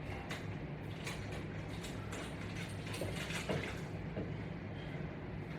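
Faint scattered creaks and clicks over a low steady hum.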